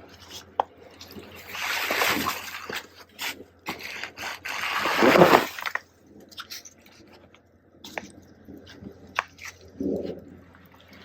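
Snow being pushed off a hoop tunnel's plastic sheeting with a garden hoe from inside: two long rushing slides of snow across the plastic, a shorter one near the end, and scattered knocks and ticks between them.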